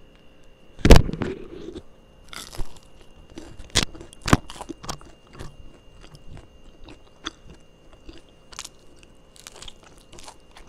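Someone biting into and chewing a crispy flour-and-parsley flatbread: one loud crunch about a second in, then irregular smaller crunches as it is chewed.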